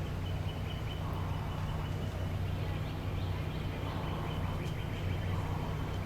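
Outdoor ambience: a steady low hum, with a faint thin high note and a few faint bird calls over it.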